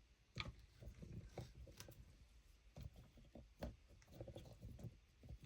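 Faint, scattered small clicks and rustles of craft supplies being handled on a work table, as a roll of washi tape is picked up.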